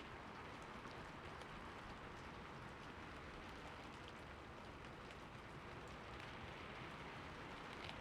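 Steady rain falling on a roof, an even hiss with faint scattered ticks of single drops.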